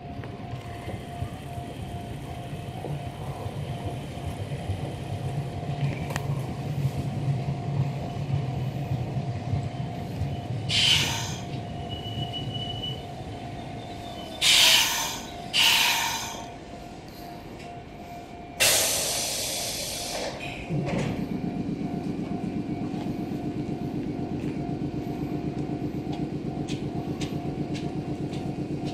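Meitetsu electric commuter train rolling slowly into a station and stopping, with a low rumble from the wheels. Then come several short, loud hisses of air, and from about two-thirds through a steady, evenly pulsing hum from the standing train.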